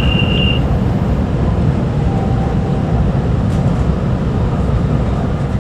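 Steady low rumble of a Kyushu Shinkansen 800 series train running, heard inside the passenger car, with a thin high whine that stops about half a second in.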